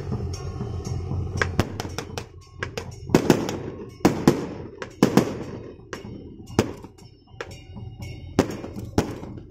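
Firecrackers going off in a string of irregular loud bangs starting about a second and a half in, several of them followed by a ringing echo, with music underneath.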